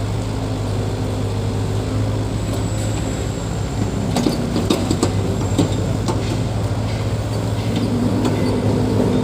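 Heavy earthmoving machine's engine running steadily, with a run of sharp metallic clanks and rattles in the middle.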